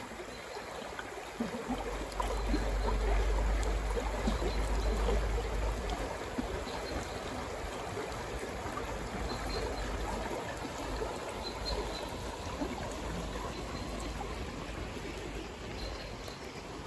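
A stream of running water, with a steady, even rushing and trickling. A low rumble runs underneath, strongest a couple of seconds in.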